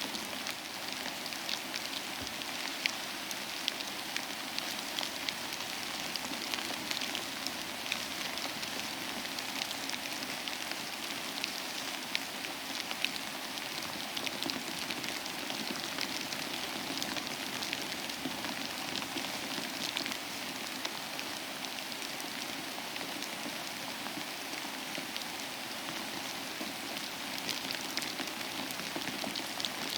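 Steady rain falling, with many close individual drops pattering on a surface.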